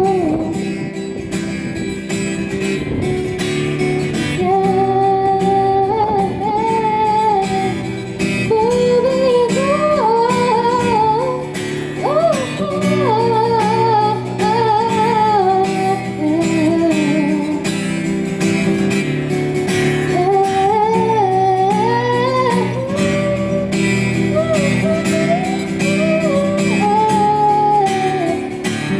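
A woman singing a melody over strummed acoustic guitar. Wind buffets the microphone.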